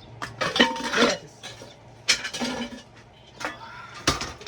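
Metal cooking pots clanking as they are handled, a few sharp clanks with brief ringing, the loudest cluster about half a second to a second in.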